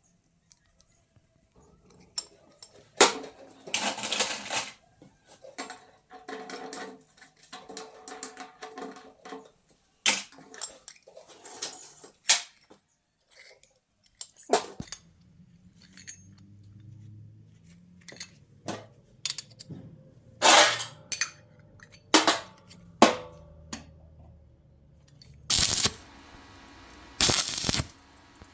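Workshop handling noises: irregular metal clinks, knocks and clatters, with a short stretch of ringing tones early on and a low steady hum starting about halfway through.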